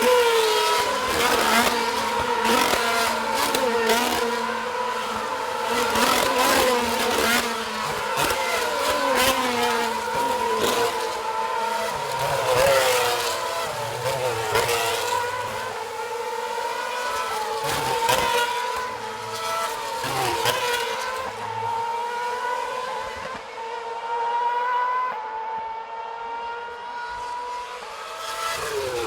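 2013 Formula One cars' V8 engines screaming past one after another at speed, each rising and falling in pitch as it goes by, with gear changes heard between passes.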